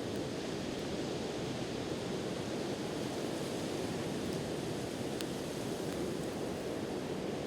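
Steady wash of sea surf, with a few faint crackles from a wood campfire, one plain about five seconds in.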